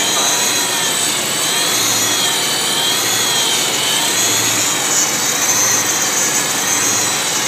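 Supercharged BMW E92 M3 S65 V8 idling, heard close up in the open engine bay: a steady run with a high supercharger whine over it that wavers gently up and down in pitch.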